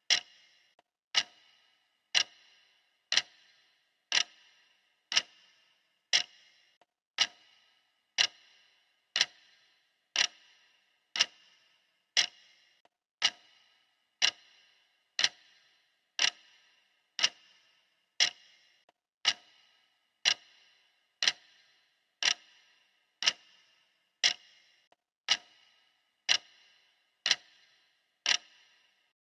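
Clock ticking steadily, one sharp tick a second, each with a brief metallic ring. The ticks stop shortly before the end as the countdown runs out.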